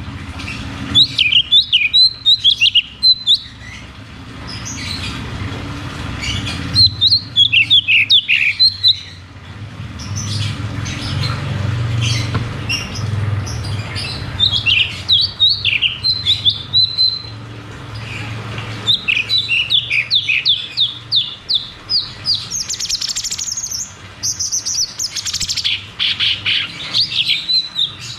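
A cucak cungkok songbird singing in repeated phrases of fast, rapid-fire chirps and trills. Each phrase lasts a few seconds, and the longest, most continuous run comes near the end. A steady low hum sits under the song.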